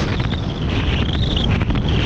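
Wind buffeting the microphone in a steady low rumble, with a thin, wavering high-pitched whistle running through most of it.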